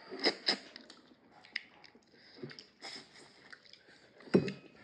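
Close eating sounds of people eating a meal with their hands: wet chewing and lip smacks with scattered small clicks. There is a single louder knock near the end.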